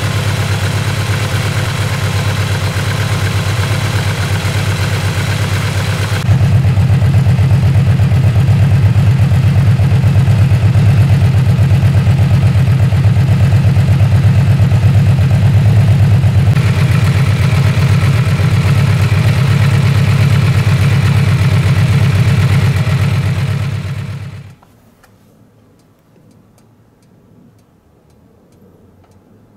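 Yamaha V-Max 1700's V4 engine idling steadily through an aftermarket Pranas muffler, a deep bass-heavy exhaust note. It gets louder about six seconds in, and the engine is shut off about four-fifths of the way through, the sound dying away within a second.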